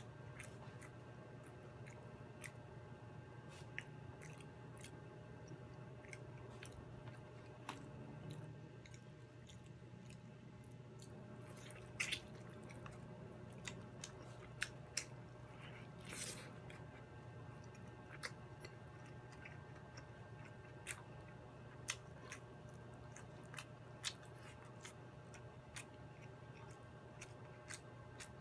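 A person chewing and biting fried chicken with rice, with many small wet mouth clicks and a couple of louder smacks midway.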